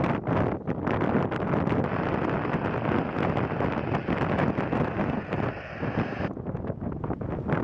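Wind buffeting the microphone in irregular gusts, with a rushing noise that loses its highest hiss about six seconds in.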